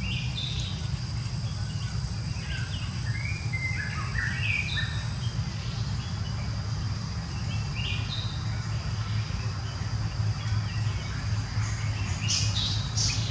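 Birds chirping in short, scattered calls, with a louder cluster near the end, over a steady high-pitched drone and a constant low rumble.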